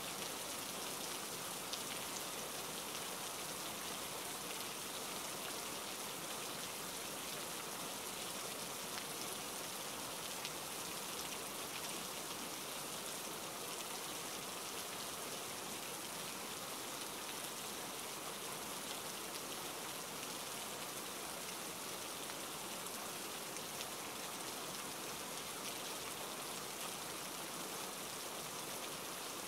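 Steady rain falling: an even hiss of drops that holds the same level throughout.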